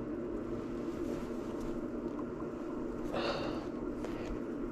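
Steady low mechanical hum in a workshop, with a brief soft rustle about three seconds in.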